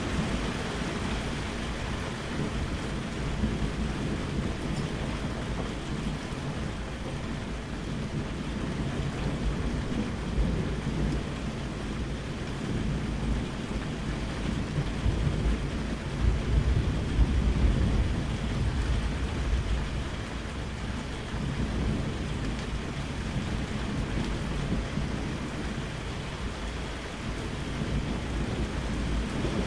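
Steady rain with rolling thunder rumbling low underneath, swelling louder about halfway through before settling back.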